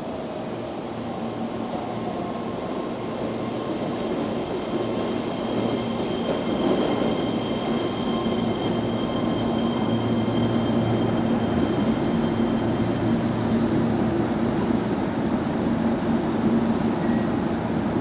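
Keihan 13000-series electric train pulling into the platform and slowing to a stop. The wheel and motor noise grows louder as it draws in, with a steady high tone that fades out about two-thirds of the way through.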